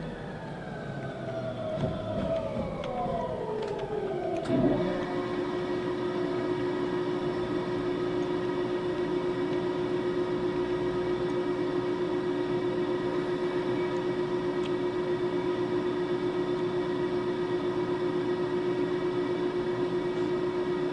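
Ainokaze Toyama Railway 521-series electric train braking to a stop: the inverter-driven traction motors whine in several tones falling together in pitch, ending in a thump as the train halts about four and a half seconds in. It then stands with a steady electrical hum.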